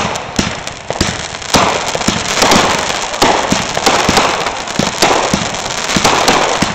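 Aerial fireworks going off in quick succession: a rapid run of sharp bangs from bursting fireworks, with dense crackling between them.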